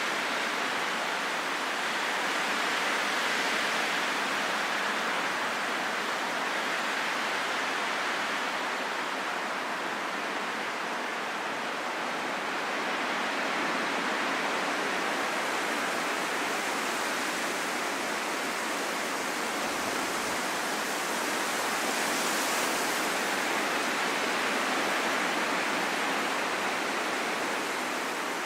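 Steady rain falling, a dense even hiss that swells and eases slightly.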